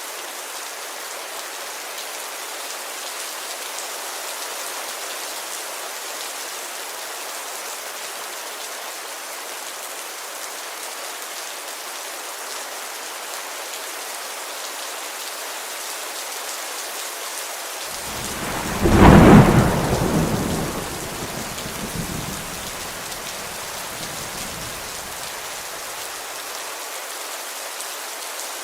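Steady heavy rain beating on a window pane. About 18 seconds in, a loud thunderclap breaks out and rumbles away over several seconds, dying out by about 26 seconds in.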